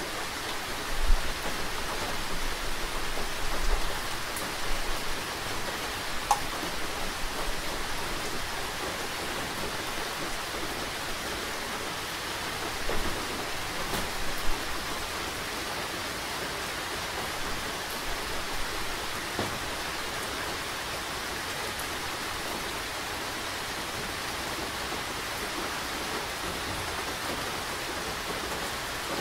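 Steady rain falling, an even hiss of drops. A few brief low bumps break through in the first half, the loudest about a second in.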